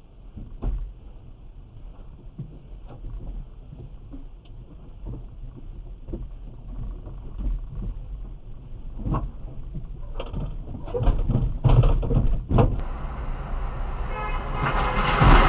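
Car engine idling, heard through a dashcam, with scattered short knocks and clicks; it grows louder toward the end. About 13 s in, a different recording takes over with louder road traffic noise.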